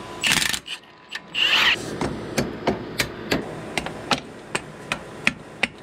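Hammer tapping on metal in steady, sharp strikes, about three a second, working a part loose on the off-road buggy's front suspension. A couple of short scraping rushes of noise come first.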